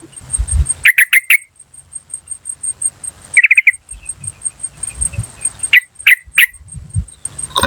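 Yellow-vented bulbul calling: sharp, short "cuk" notes, a quick run of about four a second in, a fast rattling burst near the middle, then single notes. A high insect ticking about four times a second goes on behind.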